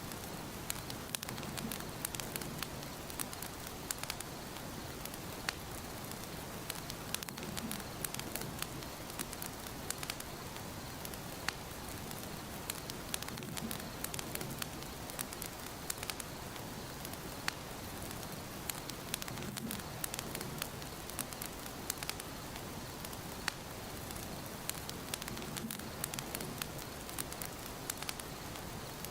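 Wood fire burning in a fireplace: a steady hiss with frequent sharp crackles and pops throughout, and a soft low swell about every six seconds.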